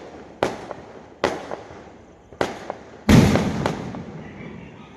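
Fireworks going off: sharp single bangs about a second apart, then a much louder blast a little past halfway with a long rumbling decay, and one more bang soon after.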